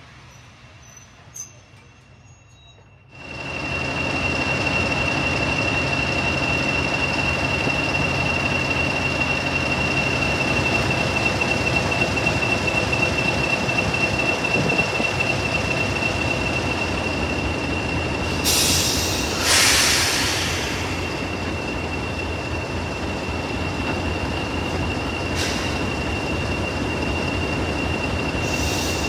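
A heritage diesel-hauled train running, loud and steady, with a thin, high, continuous wheel squeal, starting suddenly about three seconds in. Short hissing bursts come twice about two-thirds through and once more near the end.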